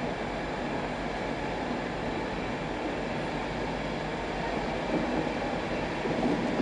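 Passenger train coaches rolling slowly past on the rails: a steady rumble of wheels on track. It gets louder and more uneven about five seconds in.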